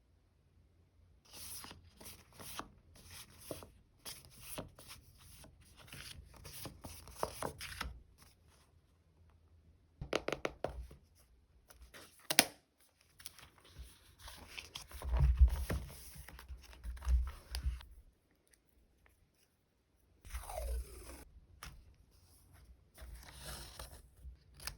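Plastic sticker packaging crinkling and rustling as it is handled, with short tearing sounds, in clusters of quick bursts broken by brief pauses.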